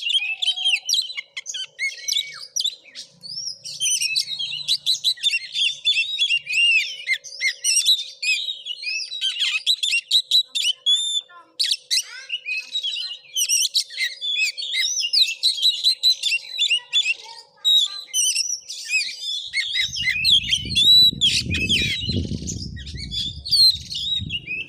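Oriental magpie-robin (kacer) singing continuously: a fast, varied stream of chirps, whistles and trills with no pause. A low rumble joins in near the end.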